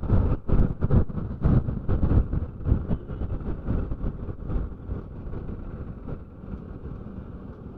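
Wind buffeting a helmet microphone on a moving motorcycle, over road and engine rumble. The gusts are heavy at first and ease after about three seconds into a steadier rumble.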